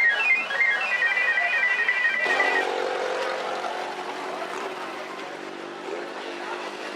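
A short melody of high electronic beeping tones that hop between a few pitches and stop about two and a half seconds in, followed by a lower steady hum.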